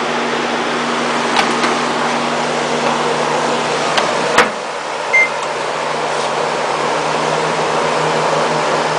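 Microwave oven being set going: a click as the door shuts, a short keypad beep about five seconds in, then the oven's steady running hum, under the steady drone of an air conditioner.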